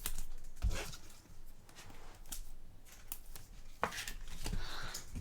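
Topps Chrome trading cards being handled and slid off a stack one after another: soft sliding scrapes with a few sharp taps, one near the start, one about a second in and one near the end.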